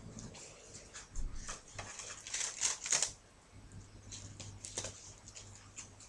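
Irregular rustling and scratching of stiff card being handled as wool is pulled through its punched holes, loudest a couple of seconds in.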